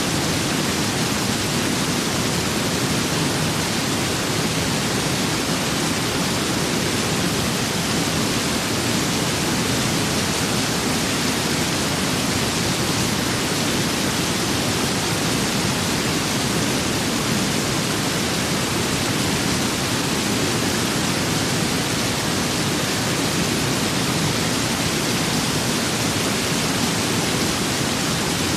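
Steady rain and wind ambience: a dense, even hiss that holds at one level throughout, with no separate drops, gusts or thunder standing out.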